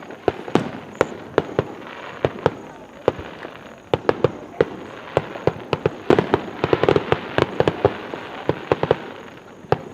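Fireworks show: aerial shells bursting in quick succession as many sharp bangs, thickest from about six to nine seconds in.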